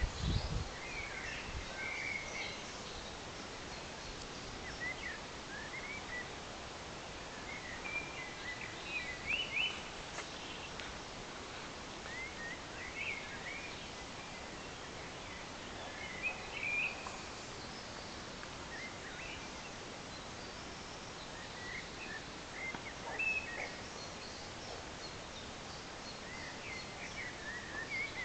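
Small birds chirping and twittering in short, scattered calls over a steady outdoor background hiss, with a brief low thump right at the start.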